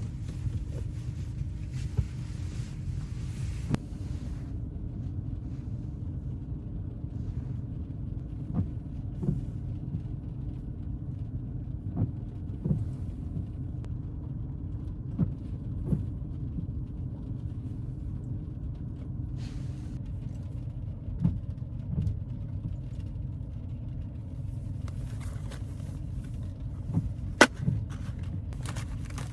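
Steady low road rumble inside a moving car, with occasional light knocks and clicks; the sharpest knock comes near the end.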